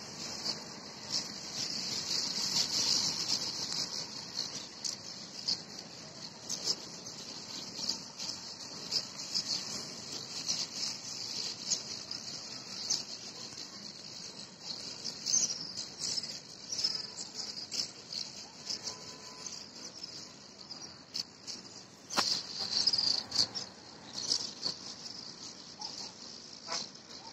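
Steady, high-pitched chorus of insects, with many short chirps and a few quick calls over it; it swells briefly near the start and again near the end.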